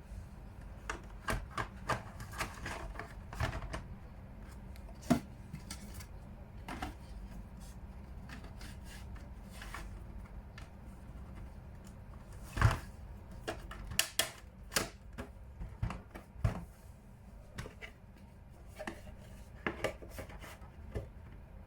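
Irregular clicks, taps and rubbing of plastic parts being handled on an Evapolar personal air cooler as its filter is dealt with. The loudest knocks come about halfway through and again a little later.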